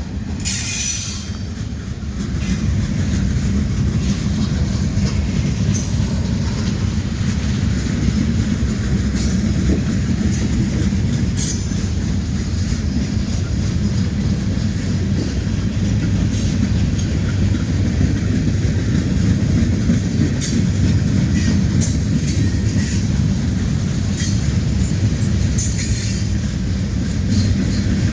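A train rolling past, a steady heavy rumble of rail cars on the track, with short high-pitched wheel squeaks now and then.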